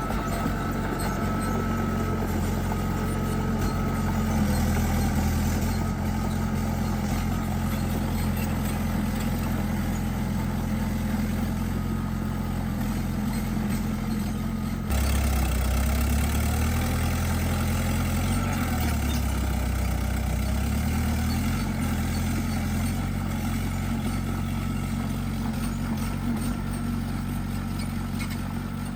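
Small bulldozer's diesel engine running steadily. About halfway through the sound changes abruptly, and after that the engine note rises and falls as the machine works.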